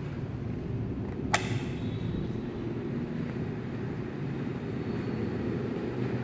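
48-inch DEMC industrial ceiling fan running, a steady low rush of air and motor hum. A single sharp click rings out about a second in.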